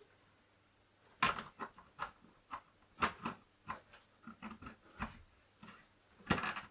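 Handling of the Commodore 64 and its cables while it is set up for a power-on test: a string of irregular clicks and knocks, the loudest about a second in, around three seconds in and near the end.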